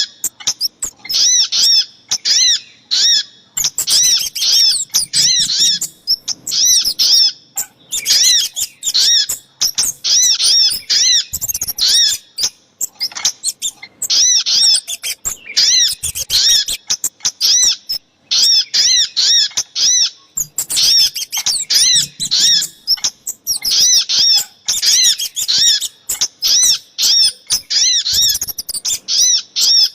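Small birds calling in fast runs of short, high, arched chip notes, repeated many times a second with brief pauses between runs. These are the sogok ontong and kemade calls of a bird-lure recording used to attract wild birds for trapping.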